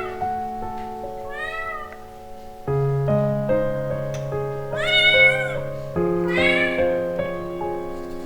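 A kitten meowing three times, the second call the loudest, over background piano music.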